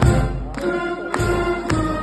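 A town wind band playing a tune in sustained chords over a steady bass-drum beat, a little under two beats a second.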